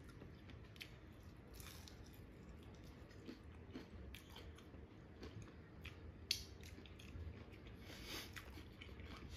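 Faint chewing and crunching of crispy fried chicken skin, in scattered crackles, with one louder click about six seconds in.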